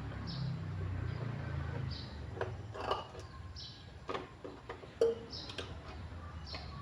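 A small bird chirping, short high calls repeating about every one and a half seconds. A few sharp clicks and knocks come in between, the loudest about five seconds in, over a low steady hum.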